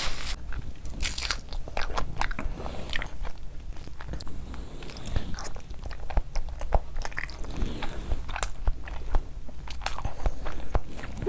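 Close-miked wet chewing, lip smacks and mouth clicks from eating soft fufu dipped in curry gravy by hand, an irregular run of short smacks.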